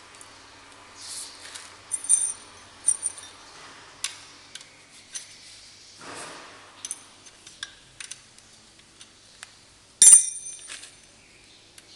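Metal hand tools and engine parts clinking and clanking as they are handled during engine disassembly, with a few small ringing clinks and one loud, ringing metal clank about ten seconds in.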